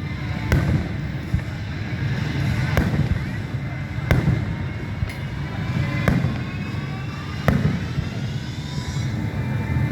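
Aerial fireworks bursting: about six sharp bangs, one every one to two seconds, over a constant low rumble.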